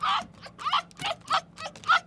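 An animal calling in short, high, repeated cries, about three a second, each bending in pitch.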